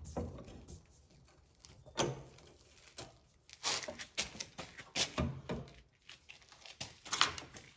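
Parts and hand tools being handled during machine assembly: irregular clicks and knocks in short clusters, with brief pauses between them.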